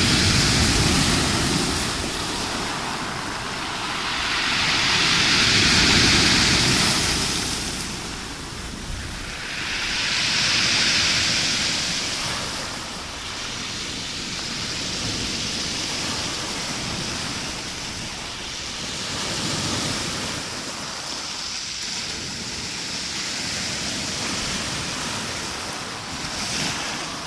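Rough Black Sea waves breaking and washing, the surf swelling and easing every few seconds, strongest in the first half. Wind buffets the phone's microphone.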